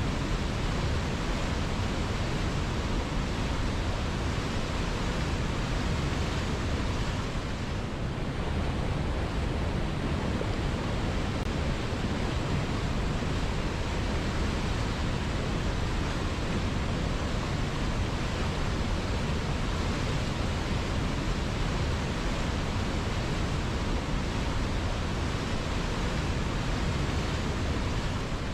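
River water flowing, a steady unbroken wash of noise with no distinct splashes.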